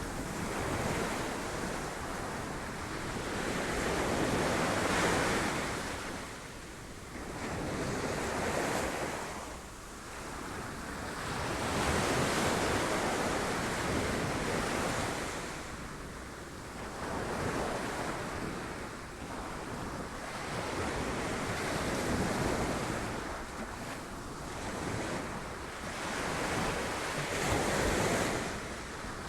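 Sea waves breaking on rocks, the surf swelling and easing in repeated surges every few seconds, with wind buffeting the microphone.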